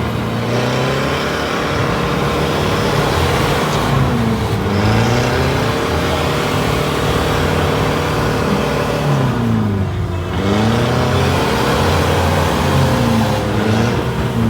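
Car engine running, its pitch repeatedly dropping and rising again, with the deepest dip about ten seconds in.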